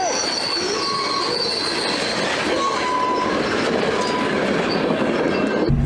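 Train rolling along the track with its steel wheels squealing thin and high against the rails over a steady rumble. Shortly before the end it cuts abruptly to a different steady low hum.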